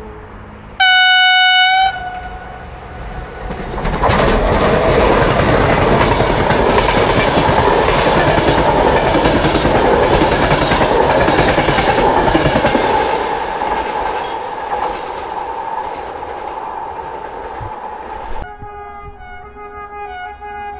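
A train horn sounds one loud blast, about a second long. Then a passenger train passes close by, its wheels and coaches clattering and rumbling over the rail joints, and the noise fades away.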